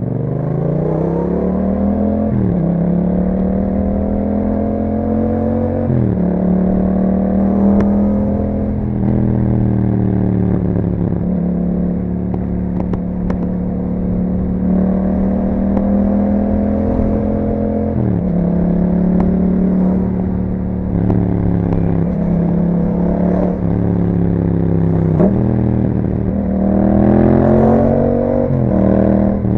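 Yamaha MT-07's 689 cc parallel-twin engine through an Akrapovic exhaust under acceleration while riding: the engine note climbs and drops abruptly at each gear change, about two and six seconds in and repeatedly in the second half, with a louder rev near the end.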